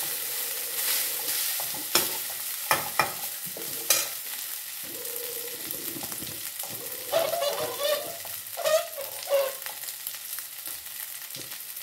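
Rice sizzling in hot oil in a metal kadhai while a long slotted steel spoon stirs and scrapes it. The spoon clanks sharply against the pan several times in the first few seconds, then scrapes it more roughly later on.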